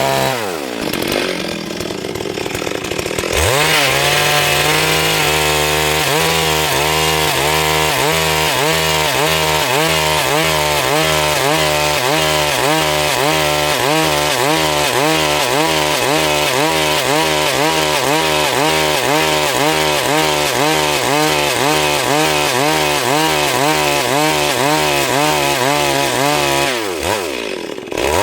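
Stihl MS 382 two-stroke chainsaw sawing wood at high revs, its pitch rising and falling in a steady rhythm about twice a second. The engine drops back briefly near the start and again near the end before revving up.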